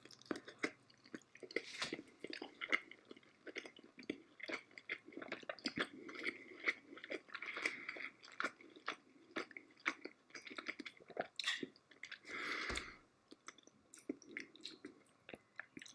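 A person chewing a mouthful of mackerel cooked in vinegar (inun unan), with many small mouth clicks and smacks.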